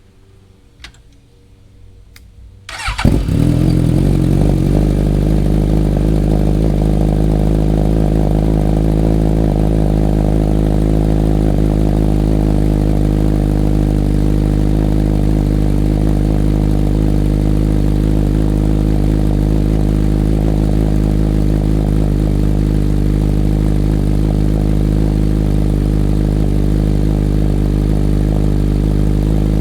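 Suzuki GSX-S1000 inline-four with a full Dominator exhaust and no catalytic converters, started warm. After two faint clicks it cranks and catches about three seconds in with a brief flare of revs, then settles into a loud, steady idle.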